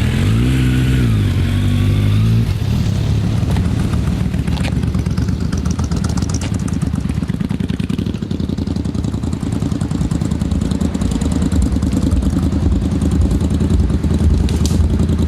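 Motorcycle engine revved up and back down in the first couple of seconds, then running steadily.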